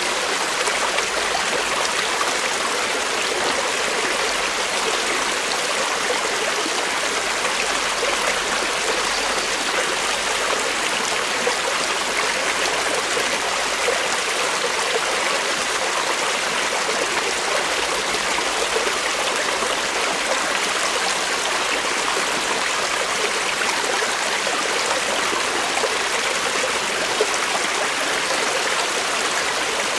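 Creek water flowing steadily over rocks, a constant rushing and trickling.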